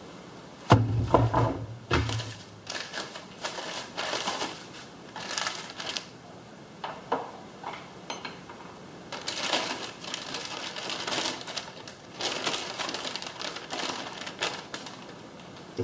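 Clicks, taps and rattles of plastic and metal parts being handled while working on a garage door opener's control board housing, with a sharp knock about a second in.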